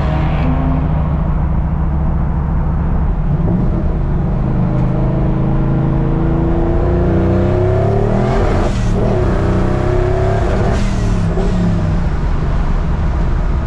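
Car engine accelerating hard, its pitch rising, then breaking off about nine seconds in as it shifts and climbing again.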